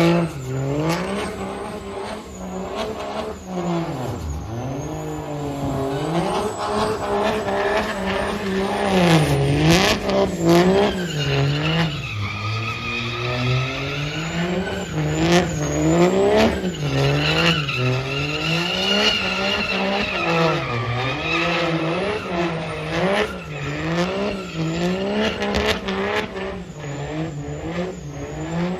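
Truck engine revved hard over and over during a burnout, its pitch climbing and dropping every second or so, with tyres squealing.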